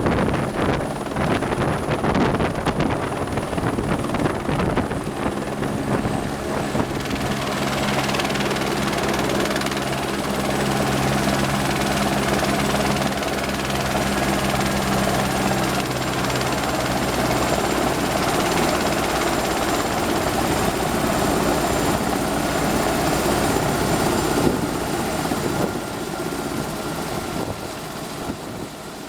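Helibras Esquilo helicopter running close by: rapid, even rotor chop over a high, steady turbine whine. The sound fades away over the last few seconds.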